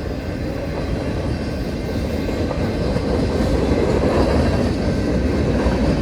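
CSX freight train's cars rolling past, wheels clacking over the rail joints over a steady rumble that grows a little louder.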